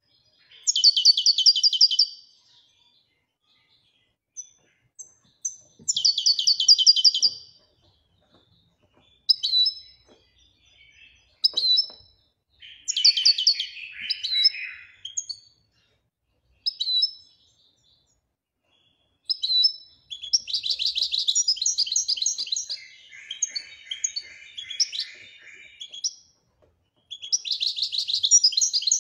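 Moroccan goldfinch singing in the 'Ouidania' song style: high, rapid twittering phrases broken by short pauses, with one longer unbroken phrase about two-thirds of the way through.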